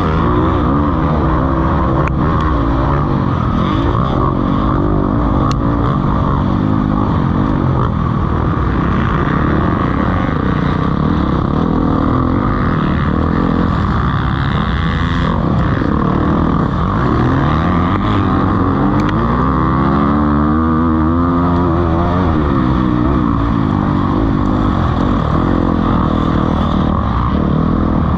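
Several motocross bikes racing, their engines revving up and down in overlapping tones. About two-thirds of the way through, one bike's engine rises in pitch and falls again.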